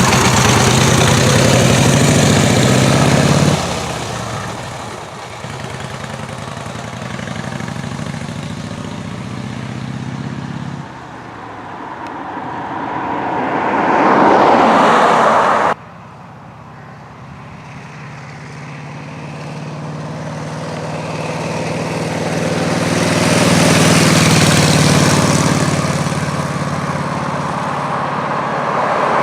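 1928 BSA E28 770 cc V-twin motorcycle engine running on the road, swelling and fading as the bike rides toward and away from the listener. It cuts off abruptly about halfway through, then builds again to a loud peak near the three-quarter mark.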